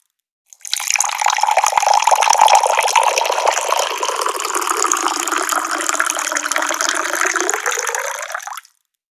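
Tap water pouring in a steady stream. It starts about half a second in and cuts off shortly before the end, with silence before and after.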